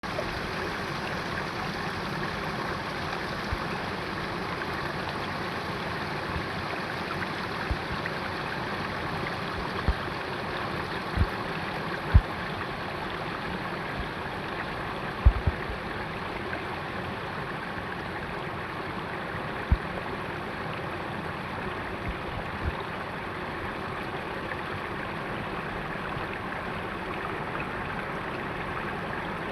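Steady rain, an even hiss, with a few short low thumps scattered through it; the loudest come near the middle.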